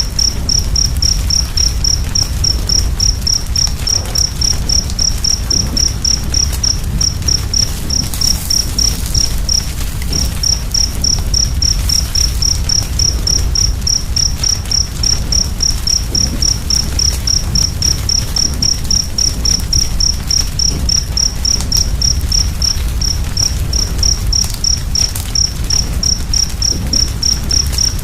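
A cricket chirping in an even, unbroken rhythm of three or four chirps a second at one high pitch, pausing briefly about ten seconds in. Under it runs a steady low rumble of the fire with faint crackles.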